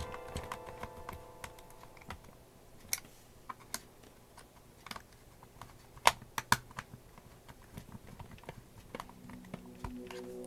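Irregular small sharp clicks and taps of hard plastic parts being handled and fitted together while a Wii U GamePad is assembled. The loudest clicks come about six seconds in.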